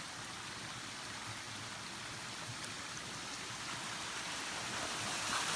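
Waterfall cascading over rock ledges into a pool: a steady rush of water that grows somewhat louder toward the end. The creek is running high after recent rain.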